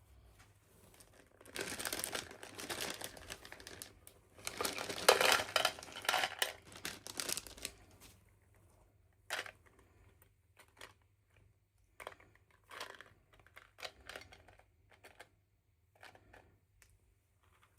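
Packaging being handled and unwrapped, crinkling and tearing in two longer bursts, then short scattered rustles and clicks.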